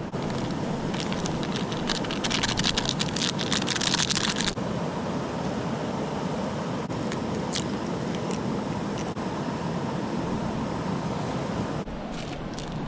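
Wood campfire crackling: a dense run of pops and snaps for a few seconds near the start, then scattered single pops over a steady rushing hiss.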